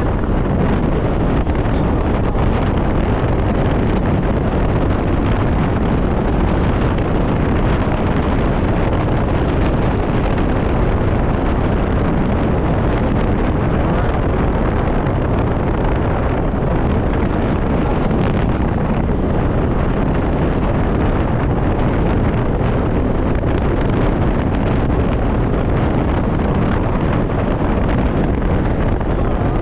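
Steady wind rush on the microphone of a scooter rider at speed, with the scooter's running underneath.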